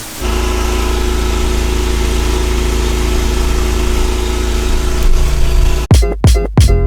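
Pressure washer's engine running steadily with a deep, even hum. Near the end, music with a sharp beat comes in over it.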